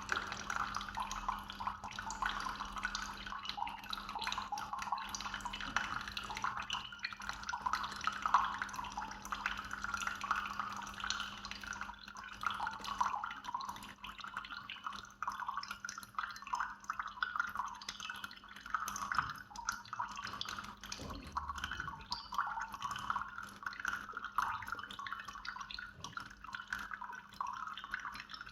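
Instant Solo single-serve coffee maker spitting and dripping hot water in irregular spatters over a steady low hum: the machine is malfunctioning, sputtering water out instead of brewing.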